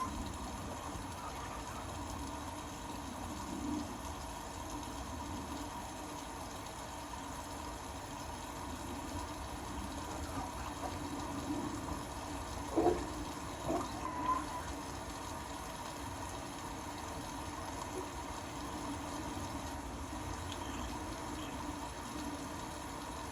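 Water running in an Indesit Innex BWE 91496X washing machine: a steady rush with a faint hum, and two short louder sounds a little past the middle.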